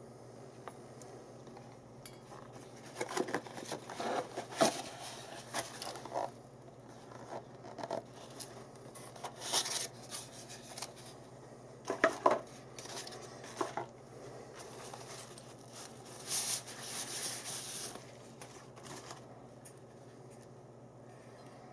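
Small objects being handled: irregular clicks, light clatter and brief rustling in clusters, with pauses between, over a faint steady hum.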